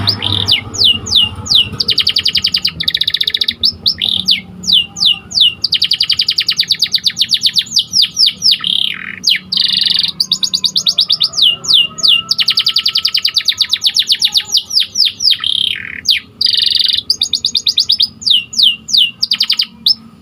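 Domestic canary singing: long, fast trills alternating with runs of quick downward-sliding whistled notes, in phrases broken by brief pauses.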